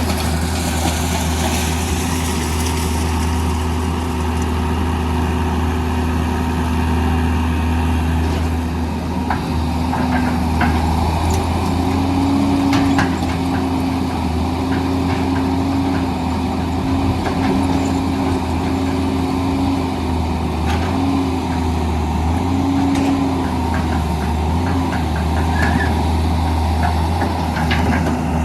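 Hitachi EX200 excavator's diesel engine running steadily with its hydraulics working, the engine tone lifting briefly several times under load in the middle of the stretch. Scattered small knocks and clatters sound from about nine seconds in, typical of sand and rocks being scooped and dumped.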